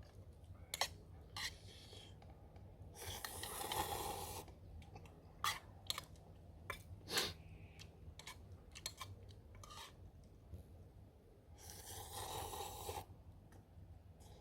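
Two longer scraping or rasping sounds, about three seconds in and again near the end, among scattered light clicks and knocks.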